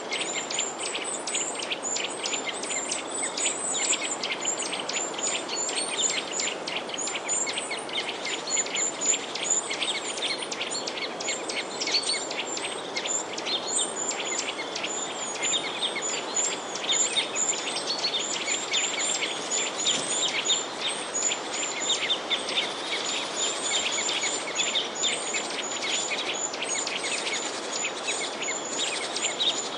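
A flock of small birds chirping and twittering continuously, many short rapid high calls overlapping, over a steady background hiss.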